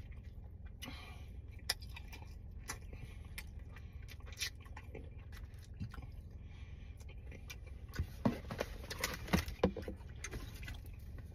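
Eating sounds: chewing barbecue rib tips, with small clicks and scrapes from handling the food and tray, and a cluster of louder chewing noises near the end, over a steady low hum inside a car.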